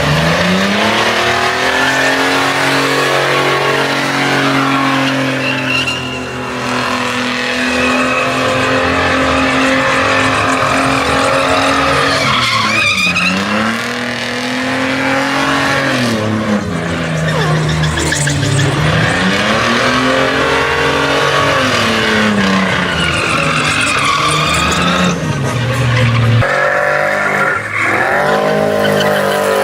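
Truck engine held at high revs while its tyres spin and squeal in a burnout. In the second half the revs dip and climb again several times, and the sound changes abruptly near the end.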